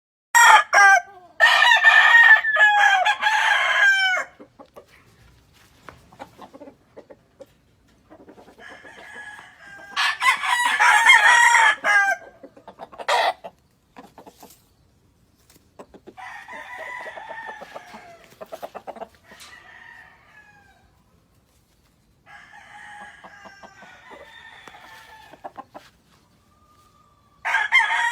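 Gamefowl roosters crowing one after another: about five long crows, some loud and close, others fainter, with pauses of a few seconds between them.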